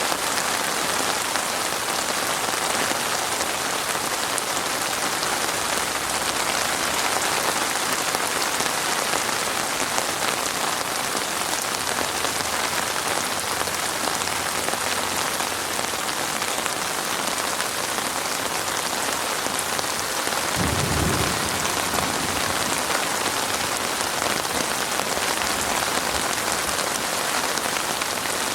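Heavy rain falling steadily on a surface, a dense, even hiss of drops. About three-quarters of the way through comes a brief low rumble.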